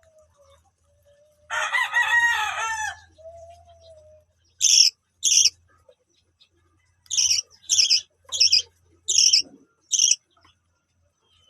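A rooster crows once. A string of short, high-pitched calls follows, two and then five in quick succession, typical of baby budgies begging for food.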